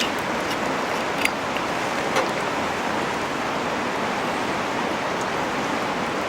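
Steady rushing hiss with a few sharp crackles and pops from a wood campfire, two of them standing out about a second and two seconds in.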